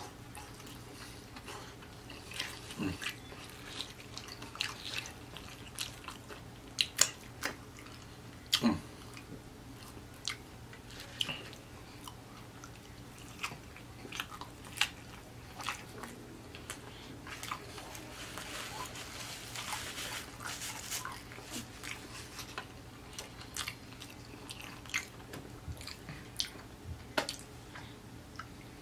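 Chewing and biting into crispy fried chicken and a triple-patty burger. There are many sharp crunches and mouth clicks at an uneven pace, and a short stretch of hissy crunching a little past the middle.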